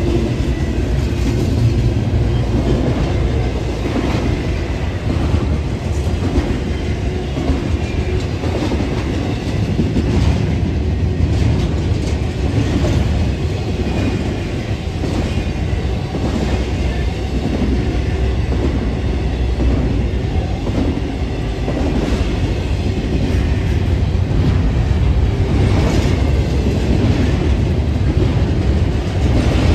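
A long train rolling past, a steady loud rumble from its cars with occasional clicks from the wheels on the rails.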